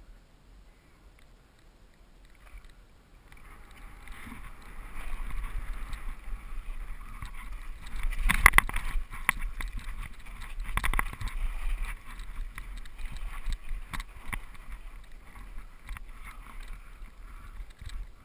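Mountain bike rolling down a rough dirt trail: tyre noise over dirt and rocks with the bike rattling, starting about three seconds in. Sharp knocks from hits over rough ground are loudest about halfway through.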